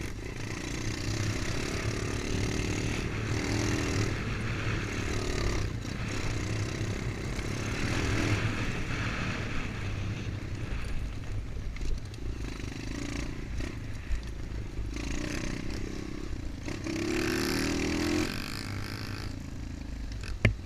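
MXF 125 dirt bike engine revving up and easing off in repeated surges as it is ridden, under a steady rush of noise, with a sharp knock near the end.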